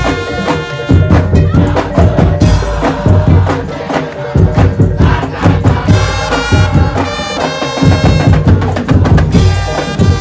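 Madurese tong-tong ensemble music: wooden percussion and heavy drum beats under a sustained melody line, played loud and continuously.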